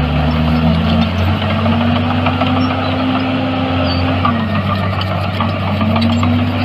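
Heavy diesel earthmoving machinery running: a steady low drone with an engine note that rises and falls several times as the throttle changes, over a dense mechanical noise.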